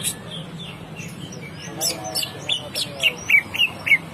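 Green leafbird (cucak ijo) singing: a lure song of sharp chips and quick, short down-slurred whistles. It grows busier and louder in the second half.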